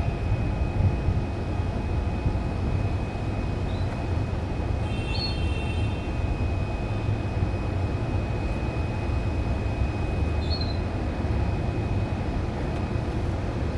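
Steady low rumbling noise with a thin high whine held throughout, and a few brief faint canary chirps: one about four seconds in, a short run about five seconds in, and another near ten and a half seconds.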